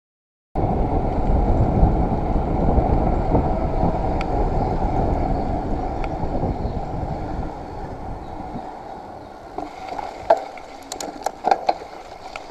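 Mountain bike being ridden on a wet, muddy woodland trail: a loud deep rumble of riding noise that starts abruptly and eases off after about eight seconds, followed by scattered sharp clicks and knocks.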